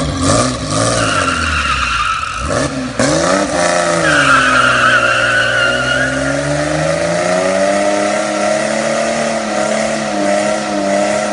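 Car engine sound effect, revving up and down, with tyres squealing twice, early and again from about four to six seconds in.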